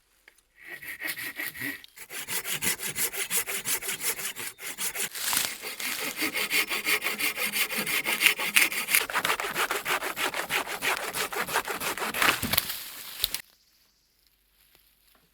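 Folding hand saw cutting through wood in quick, even back-and-forth strokes. The sawing stops suddenly about two seconds before the end.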